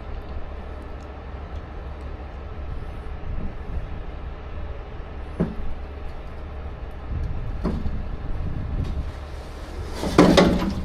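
Heavy wrecker's engine running steadily under a winch pull, with a few sharp metal clicks and a louder clattering bang about ten seconds in.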